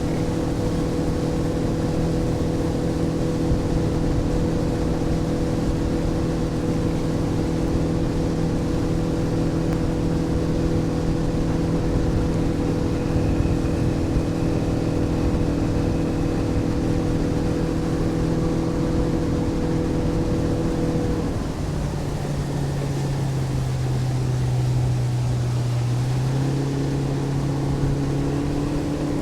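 Motorboat engine running steadily at cruising speed, then throttled back about two-thirds of the way through so its pitch drops, before picking up a little again near the end.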